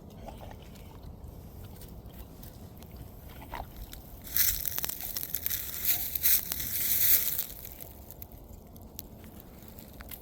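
Cane Corso puppy drinking water: a burst of splashy lapping about four seconds in, lasting some three seconds.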